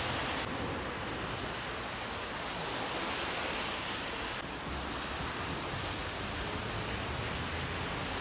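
Floodwater rushing along a flooded street, a steady loud rush of water.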